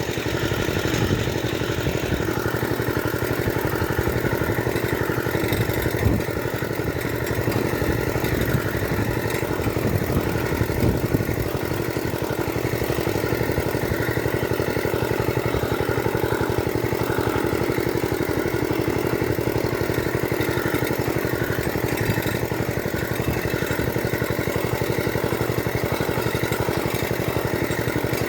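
Small farm machine's engine running steadily at a constant speed, with a couple of brief louder knocks about six seconds in and again near eleven seconds.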